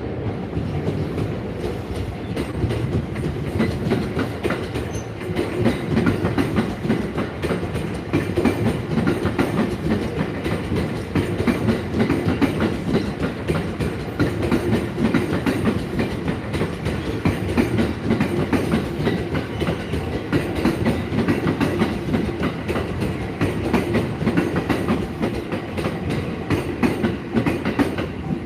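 Train rolling past at a level crossing, its wheels clattering steadily over the rail joints.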